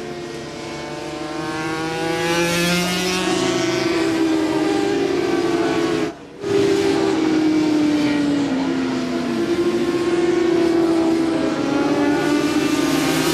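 Several 400 cc supersport racing motorcycles passing at high revs, their engine notes rising and then falling in pitch as they go by. The sound cuts out for a moment about six seconds in.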